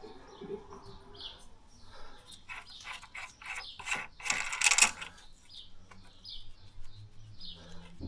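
Hand tools and metal fittings clicking and rattling during work on a car's gearbox, with a louder clatter about four to five seconds in. Short high chirps, like birds, are heard now and then.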